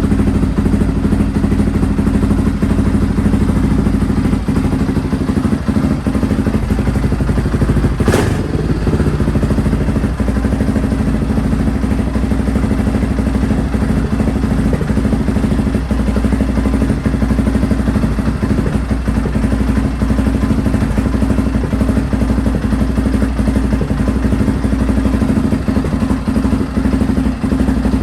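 Honda XR650R's single-cylinder four-stroke engine running steadily on its first run after sitting unused for years. There is a single sharp knock about eight seconds in.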